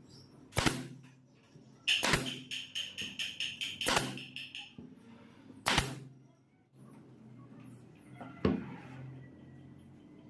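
Several sharp knocks a second or two apart, with a quick run of clicks in the middle.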